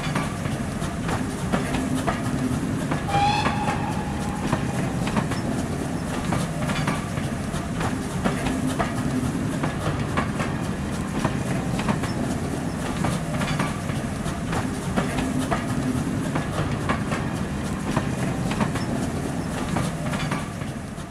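Passenger train carriages running past, a steady rumble with wheels clicking over the rail joints. A brief high-pitched tone sounds about three seconds in.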